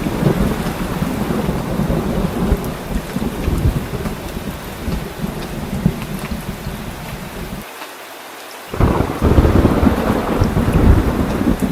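Heavy rain pouring down, with a constant low rumble of thunder underneath. About eight seconds in, the low rumble drops out for about a second, then the storm comes back louder.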